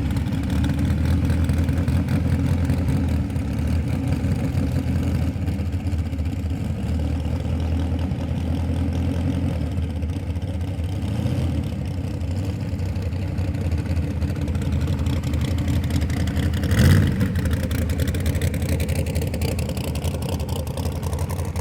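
Small-block V8 car engine running steadily, with one brief louder blip about three-quarters of the way through.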